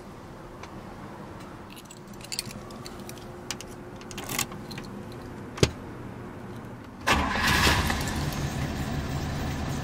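Keys jingling and clicking at the ignition, then one sharp click, then about seven seconds in the 1963 Buick Riviera's 401 cubic-inch Nailhead V8 fires right up: it catches at once, loudest in the first second, and settles into a steady run.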